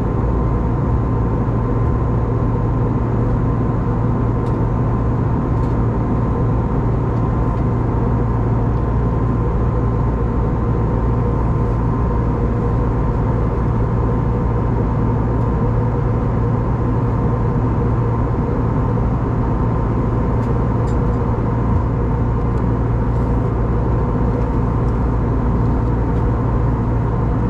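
Steady cabin noise of an Airbus A320neo in flight, a constant rush of airflow over a low hum from its CFM LEAP-1A engines, with a faint steady whine.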